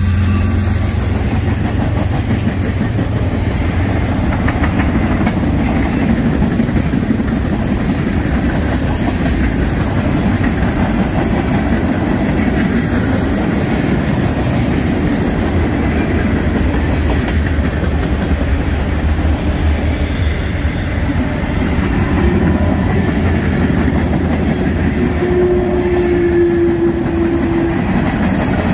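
Norfolk Southern freight train cars rolling past close by, steel wheels running loudly and steadily over the rails. A short steady tone sounds near the end.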